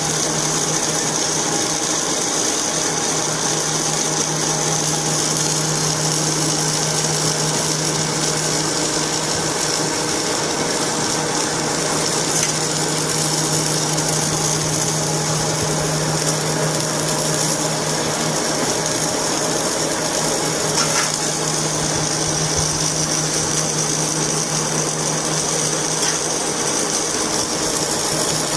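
Machinery running steadily, with a constant low hum and a high whine, and a few light clicks.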